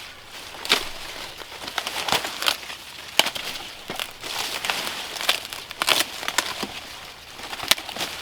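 Irregular crackling and crumpling of dry material, with sharp snaps several times a second over a steady rustle.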